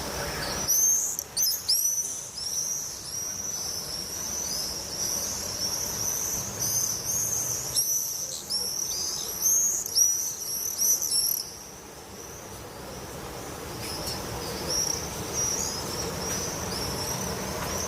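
Small birds chirping in quick, high, overlapping calls. The chirping is busiest up to about eleven seconds in, then thins to fainter, scattered calls.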